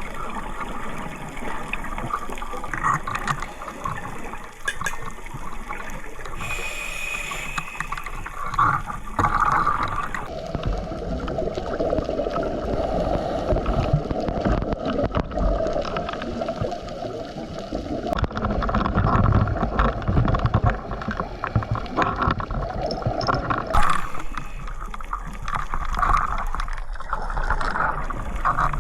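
Underwater recording of scuba divers' exhaled air bubbles gurgling and rushing, coming and going in waves.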